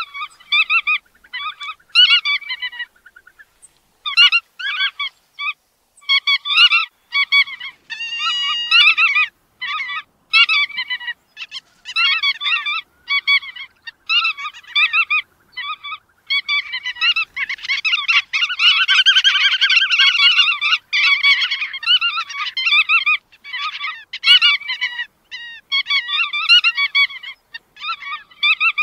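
Bar-tailed godwits calling: a run of short nasal calls repeated many times, several birds overlapping, building to a dense chorus of calls about two-thirds of the way through.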